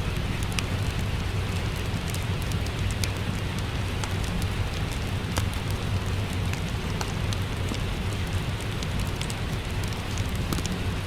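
Steady rain with a crackling wood fire: a continuous rain hiss and low rumble, with scattered sharp pops and crackles from the burning logs.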